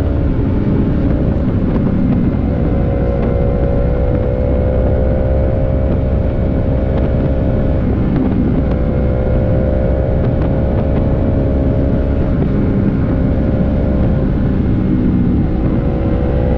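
Motorcycle engine running at steady cruising revs, easing off and picking up slightly a few times, under heavy wind rush on the helmet microphone.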